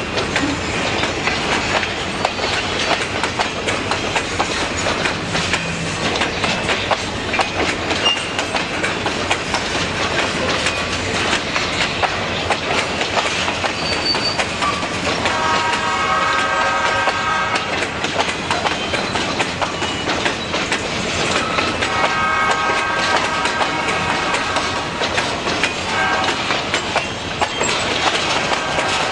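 Freight train cars rolling past, with steady wheel clatter and clicking over the rail joints. A train horn sounds in long blasts about halfway through, again a few seconds later, and once more near the end.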